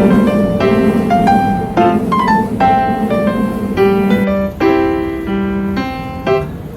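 Background music: solo piano playing a run of notes and chords.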